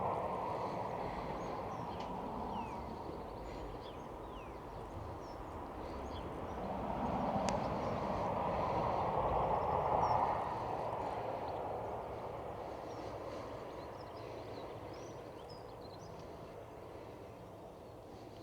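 Outdoor ambience dominated by the rushing noise of distant vehicles passing, swelling right at the start and again about seven to ten seconds in, then slowly fading away. A few faint small-bird chirps sound over it.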